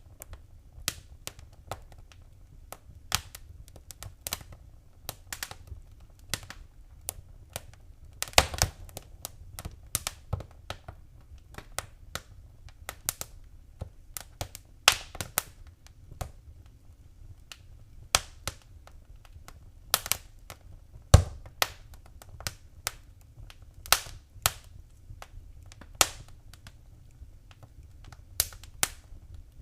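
Wood fire crackling in a fireplace: irregular sharp pops and snaps, with two louder pops about 8 and 21 seconds in, over a faint low rumble of the flames.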